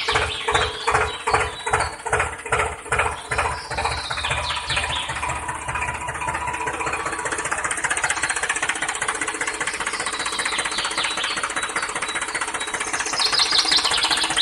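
An engine starting up with slow chugging beats over the first few seconds, then running on steadily.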